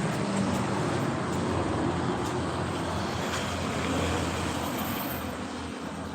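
Steady mechanical running noise with a low hum, easing off slightly near the end.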